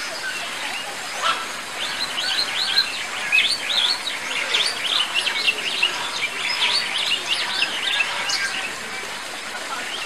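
Birds chirping: a dense, overlapping run of short, high chirps that starts about a second in and thins out near the end, over a steady background hiss.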